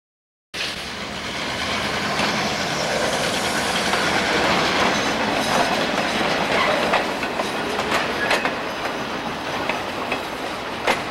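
Freight train cars rolling slowly past close by: a steady rumble of steel wheels on the rails with scattered sharp clicks. It starts suddenly about half a second in.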